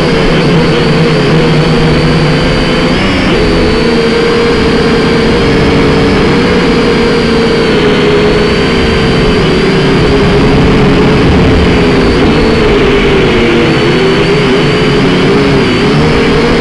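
Quadcopter drone's electric motors and propellers whining steadily, the pitch wavering up and down as the motors work against gusts, over heavy wind rumble on the microphone.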